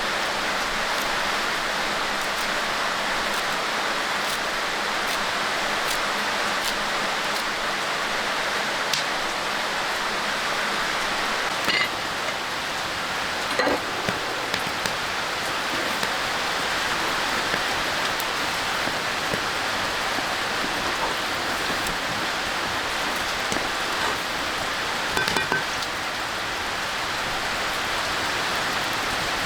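Steady rain falling on surfaces: an even hiss with scattered drips and ticks, a few louder ones around the middle and near the end.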